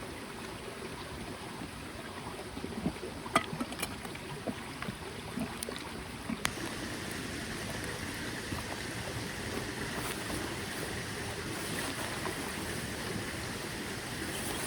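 Small mountain stream running steadily, with a few sharp clicks and taps in the first half; about six and a half seconds in, the water sound turns brighter and hissier.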